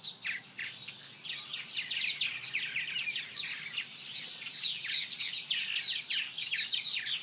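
Small songbirds chirping busily: many short, quick, downward-sliding chirps overlapping, getting denser about a second in.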